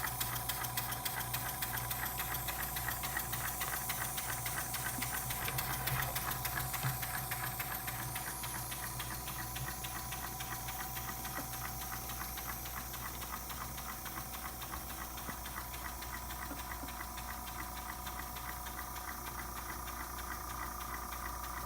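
Model beam engine running on compressed air, ticking and clattering in a fast, even rhythm. Under it runs the steady whine and hum of a small tankless airbrush compressor, which has to run the whole time.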